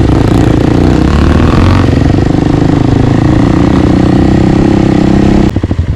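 Single-cylinder four-stroke dirt bike engine running steadily under throttle on the trail. About five and a half seconds in the throttle closes and the engine note drops into uneven pulses.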